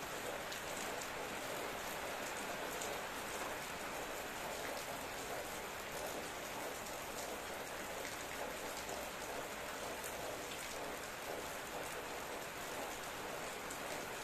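Steady rain falling, a dense even patter with scattered individual drops ticking on surfaces.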